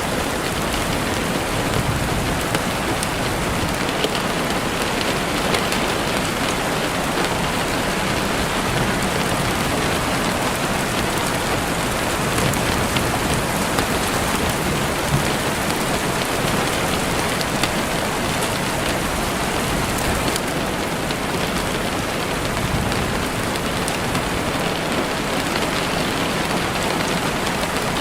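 Heavy rain falling steadily and beating on a window, a dense even hiss with small scattered drop hits.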